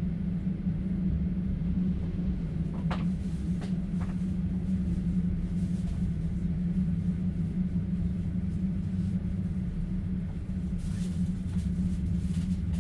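Steady low rumble of a passenger train running, heard from inside an open-plan sleeper carriage. A few faint, brief sounds come about three to four seconds in.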